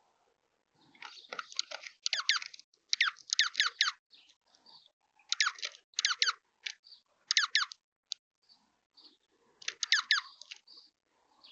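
Juncos at a feeder: about five clusters of quick, high chip notes that sweep sharply downward, with soft crunching and ticking of seed between them.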